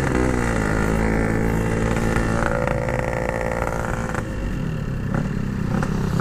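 Yamaha RX-King two-stroke single-cylinder engine running while riding. Its pitch drops over the first second as the throttle eases, then holds fairly steady.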